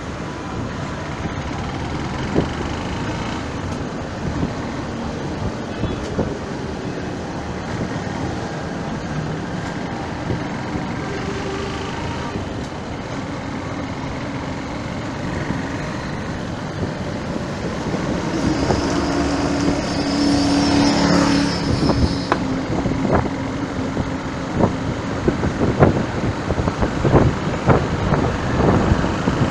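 Road traffic going by steadily, with a louder vehicle passing about two-thirds of the way in, carrying a steady low tone and a high tone. Near the end comes a run of sharp knocks or pops.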